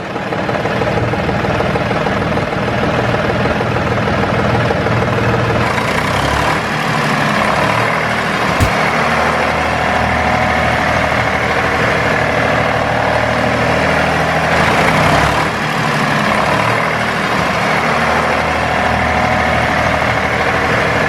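A heavy engine idling steadily, with one sharp click about nine seconds in.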